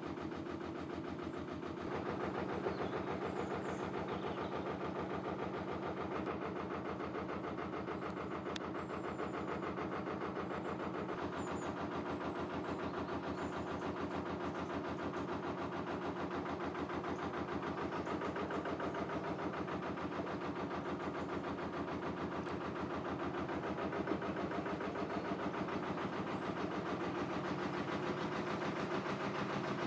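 A narrowboat's diesel engine running steadily under way, with a fast even chug. It gets louder about two seconds in.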